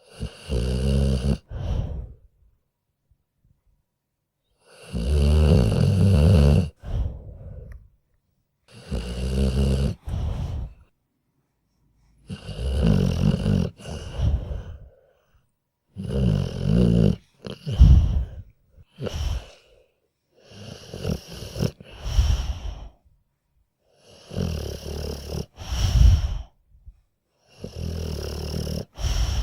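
A sleeping dog snoring in a slow, regular rhythm: about nine deep snores, each one to two seconds long, with silent pauses between breaths.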